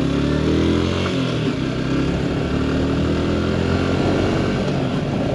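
Yamaha R15 V4's 155 cc single-cylinder engine pulling away, rising in pitch as it accelerates during about the first second, then running steadily under way.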